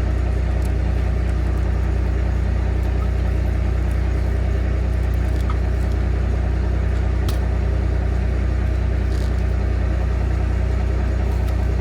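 A steady low mechanical hum, like an engine or machine running at an even speed, with a few faint light clicks over it.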